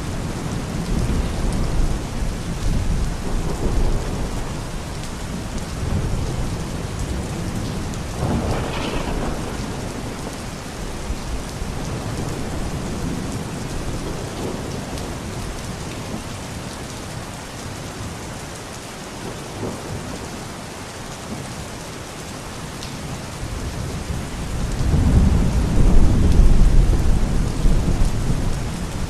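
Steady rain falling, with low rolls of thunder; the longest and loudest rumble swells up near the end.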